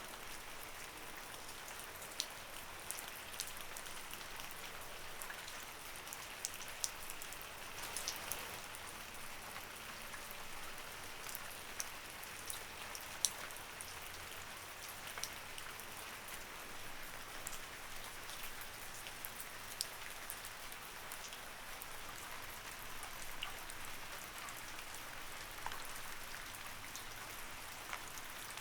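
Light rain falling steadily, a soft hiss with scattered distinct drop ticks.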